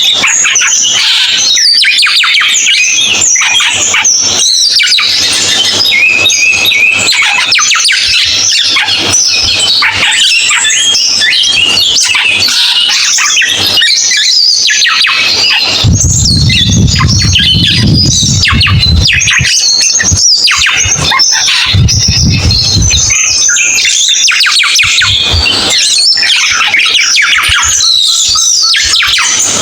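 Cucak keling bird singing loudly and without a break, a fast, dense run of chattering chirps and squawks. A low rumble comes in twice around the middle.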